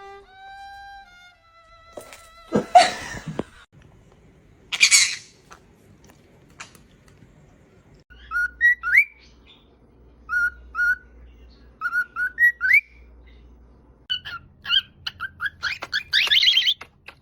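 Pet parrots whistling and squawking. It opens with a few steady whistled notes stepping down in pitch, then loud harsh squawks and screeches, and a run of short rising whistles. A last loud screech comes near the end.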